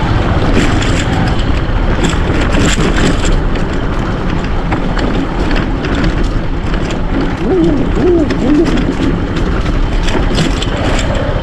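Loud wind buffeting on the microphone over a vehicle running along, as heard while riding.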